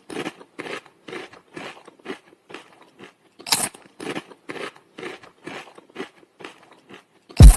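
A dog crunching a hard treat, with quick regular crunches about three a second and a few louder bites among them. A loud deep thump comes near the end.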